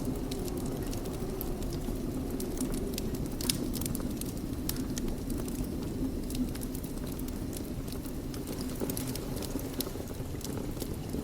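Wood fire burning in a fireplace: a steady low rumble of flames with scattered sharp crackles and pops, one louder pop about three and a half seconds in.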